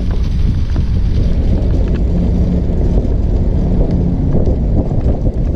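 Wind buffeting the microphone over a steady low rumble from a trike rolling along the campground road.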